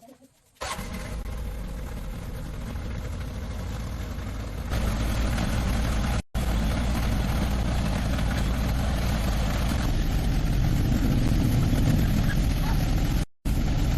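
An engine running steadily. It starts abruptly about half a second in and gets louder about five seconds in, with two brief cut-outs.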